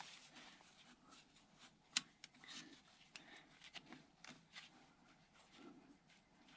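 Faint scattered clicks and rubbing of hand work with tools on a hydraulic line fitting, with one sharper metallic click about two seconds in.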